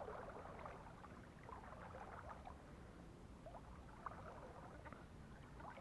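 Faint river water trickling and gurgling, with small soft splashes scattered through it.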